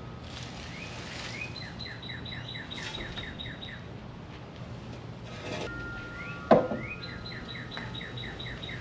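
A songbird singing twice, each song a rising note followed by a fast run of repeated chirps. About six and a half seconds in, a single loud thump.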